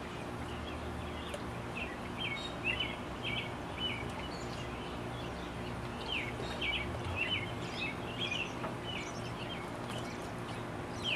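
Small birds chirping in quick, short calls again and again, over a steady low hum.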